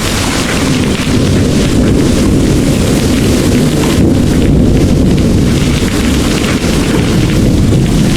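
Heavy rain pouring steadily, with a continuous low rumble of thunder underneath.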